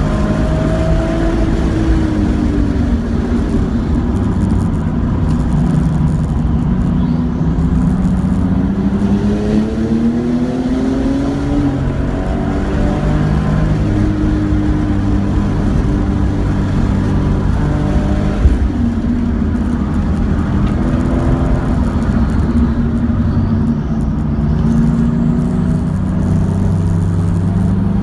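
A 2004 Porsche 996's flat-six engine heard from inside the cabin while lapping a race track, its pitch falling under braking and climbing again under acceleration through the gears. Tyre and wind noise run underneath.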